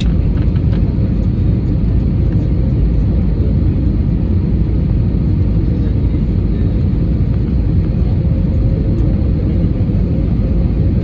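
Steady rumble of an airliner's engines and airflow heard inside the cabin on final approach, with a faint steady hum.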